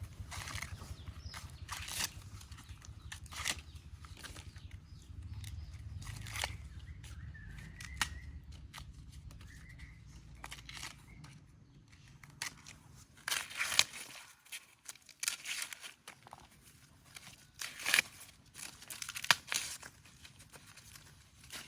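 Irregular rustling, crinkling and tearing sounds with scattered sharp clicks, over a low steady rumble that dies away about halfway through.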